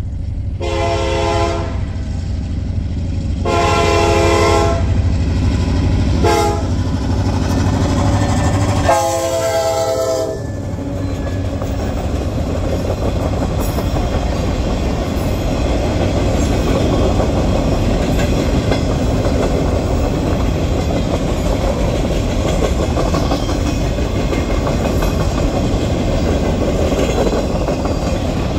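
Diesel locomotive horn sounding the grade-crossing signal, long, long, short, long, over the low hum of the engine. After the last blast, about ten seconds in, comes the steady rumble and clickety-clack of sugar cane cars rolling past the crossing.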